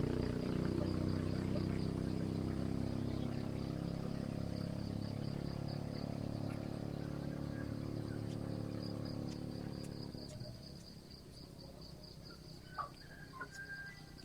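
A motor vehicle's engine hums and fades away over about ten seconds, under a steady, pulsing high-pitched insect trill. A few short bird chirps come near the end.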